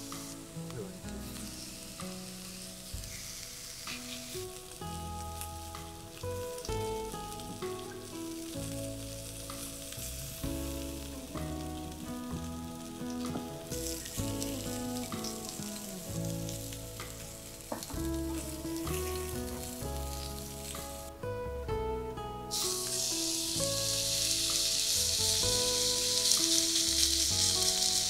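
Food frying and sizzling in a pan, the sizzle growing louder near the end, over soft background music.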